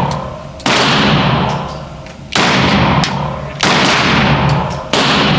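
Four pistol shots from a Glock 32 in .357 SIG, fired slowly about a second and a half apart, each followed by a long echoing decay.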